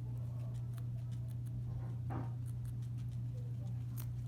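Guinea pigs chewing food: scattered crisp crunching clicks, with a brief louder sound about two seconds in, over a steady low hum.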